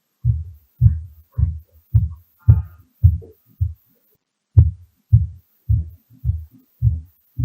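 Footfalls on the floor above heard through the ceiling of the apartment below as dull low thuds, nearly two a second, with a short pause a little past halfway: floor-impact noise carried through the floor slab.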